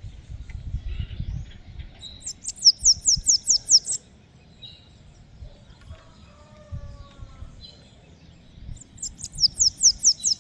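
Bananaquit singing: two bursts of quick, high-pitched, down-slurred notes, each about two seconds long, one about two seconds in and one near the end, over a low background rumble.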